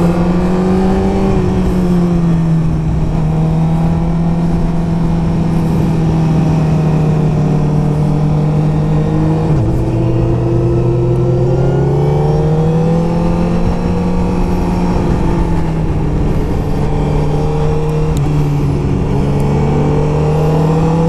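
Sport motorcycle engine pulling at road speed, heard from the rider's helmet microphone with wind noise. Its steady note drops suddenly about halfway through, then climbs again, and dips once more near the end.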